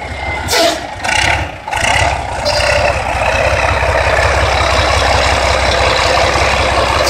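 Heavy truck engine running steadily with a deep low rumble, with a few short loud bursts of noise in the first two seconds or so.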